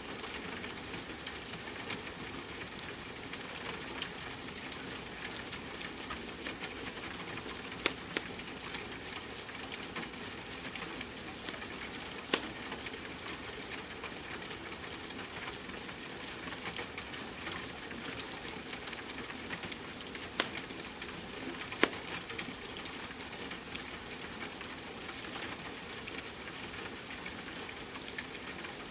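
Steady rain hiss mixed with a crackling wood fire, a few sharp pops standing out above the crackle, the loudest about 12 and 22 seconds in.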